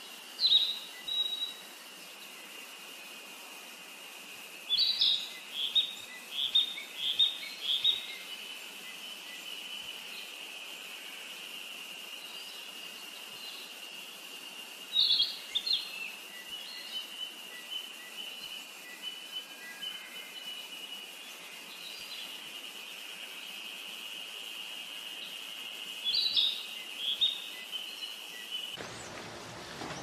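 Wild birds calling in short phrases of several quick, high notes, heard four times, over a steady high-pitched insect-like drone. Near the end the drone cuts off abruptly and a broader hiss takes over.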